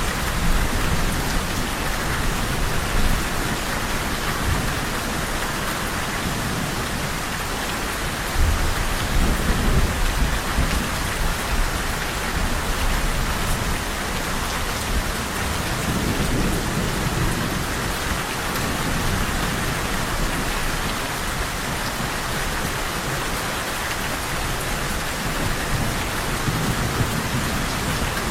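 Steady rain falling on a surface, with low thunder rumbling in and out, swelling about a third of the way in and again past the middle.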